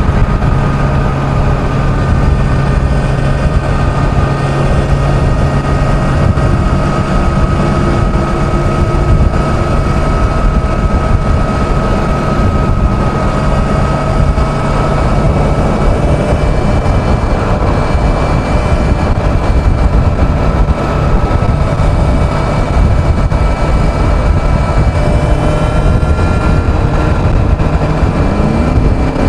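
Kawasaki Z900's inline-four engine running at a steady highway cruise, its pitch holding nearly level, under a heavy rumble of wind noise.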